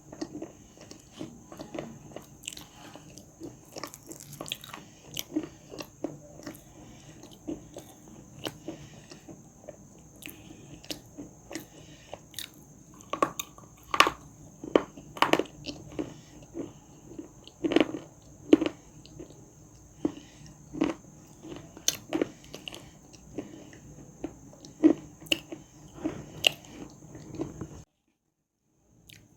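Dry clay being bitten and chewed close to the microphone: crunch after crunch, loudest in the middle, over a softer grinding chew. The sound cuts out abruptly shortly before the end.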